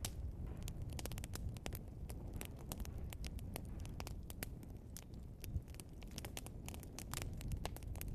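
Wood fire burning: a log crackling and popping with frequent irregular sharp snaps over a steady low rumble of the flames.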